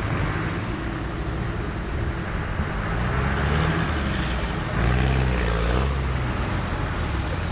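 Off-road 4x4 engine running, its note rising and getting louder about five seconds in.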